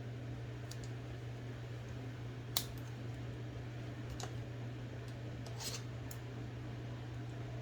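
A few light metallic clicks and a short scrape from a screwdriver working in among the parts of an IBM Selectric II typewriter's mechanism, the sharpest click about two and a half seconds in, over a steady low hum.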